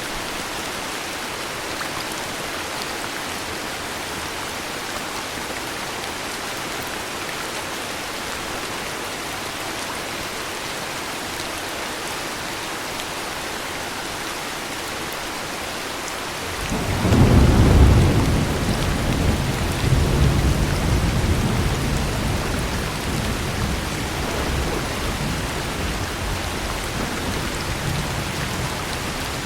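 Steady heavy rain, with a low rolling rumble of thunder that builds suddenly about two thirds of the way through, swells again and slowly dies away under the rain.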